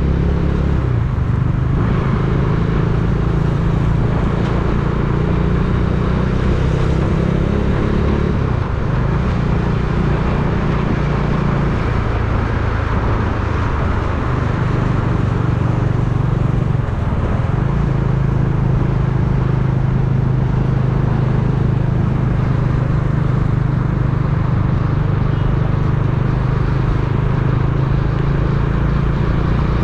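Motor vehicle driving: a steady engine hum with road and wind noise over it. The engine note dips a few times before settling back to a steady run.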